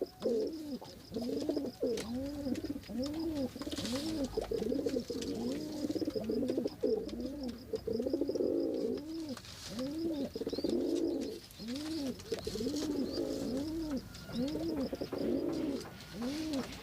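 Pigeon cooing continuously in a steady run of rising-and-falling notes, about three every two seconds.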